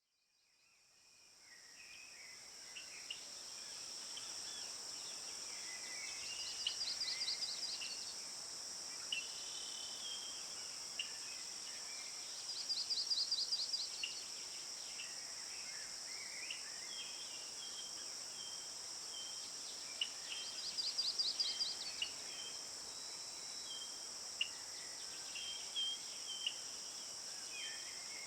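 Outdoor bird ambience over a steady, high-pitched insect drone. Various birds give short chirps and calls, and a rapid trill of quick notes comes back about every seven seconds. The sound fades in over the first few seconds.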